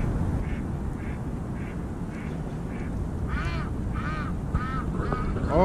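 A duck quacking in a steady series of short calls, about one every half second, faint at first and louder in the second half.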